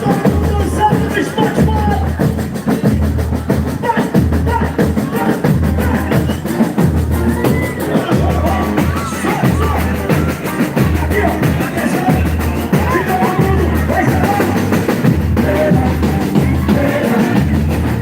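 Live boi-bumbá toada music: deep bass drums beat in a steady pulse under percussion and a singing voice.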